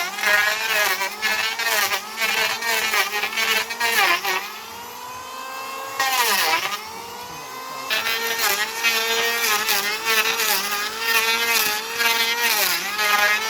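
Electric hand planer running and cutting wood, its motor pitch sagging under load and recovering as it makes passes, with a quieter free-running spell about halfway through.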